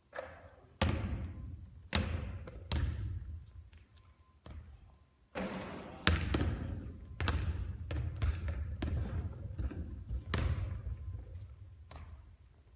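Basketball bouncing on a hard court, a run of separate sharp impacts spaced about a second apart, each trailing off in an echo.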